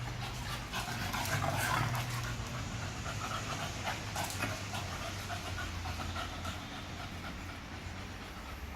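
A dog panting in quick, uneven breaths, loudest about a second or two in.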